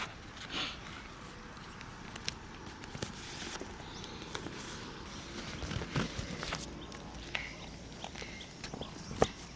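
Someone moving about and handling camping gear outdoors: light rustling with scattered clicks and knocks, and one sharper knock near the end.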